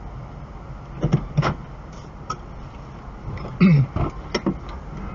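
Steady low running noise of a car on the road, broken by a handful of short sharp knocks. The loudest comes about three and a half seconds in.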